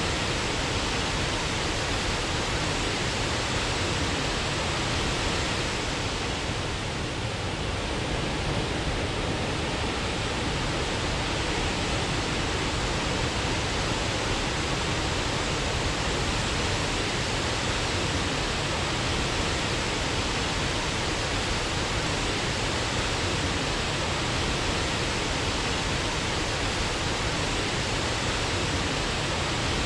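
Waterfall: a steady, even rush of falling water, dipping slightly for a moment about seven seconds in.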